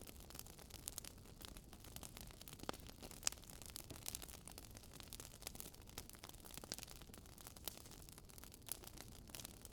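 Campfire crackling: a faint steady hiss of burning wood with constant irregular small snaps and a few louder pops.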